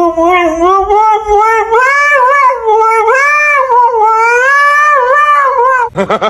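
A cat yowling in one long, nearly unbroken cry, its pitch wavering up and down, stopping near the end.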